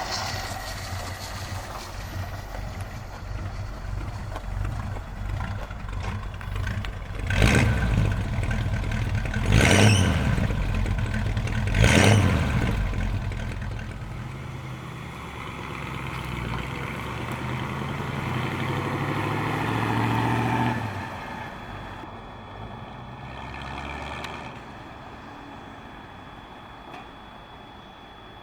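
A 1935 Ford phaeton's flathead V8 running, revved sharply three times, then running steadily until it drops off suddenly about two-thirds of the way through and fades.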